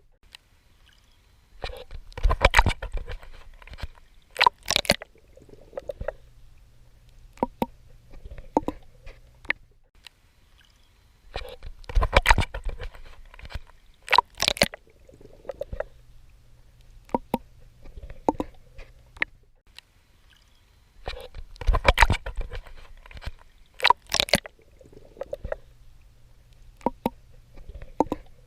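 Swimming in water: clusters of splashing and sloshing from strokes that repeat about every ten seconds, with sharp clicks and gurgles and a low steady rumble in between.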